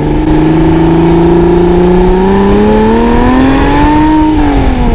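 Car engine accelerating, its pitch climbing steadily for about four seconds, easing back near the end and then cut off abruptly.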